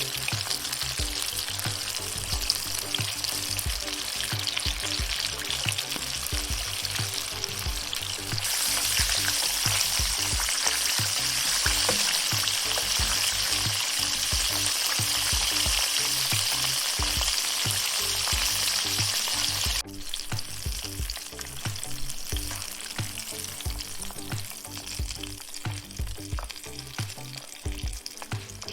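Breaded chicken strips deep-frying in hot oil, a dense crackling sizzle. It gets louder about a third of the way in and drops suddenly to a softer sizzle about two-thirds of the way through.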